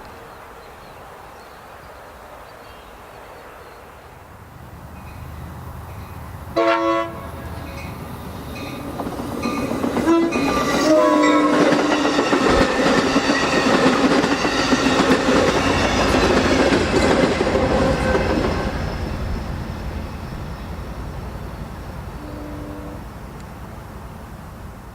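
A train approaching and passing with a rising rumble and wheel clatter on the rails. The locomotive's air horn gives a short blast about seven seconds in and another about ten seconds in, then sounds again while the train is loudest. The sound fades away, with a brief toot near the end.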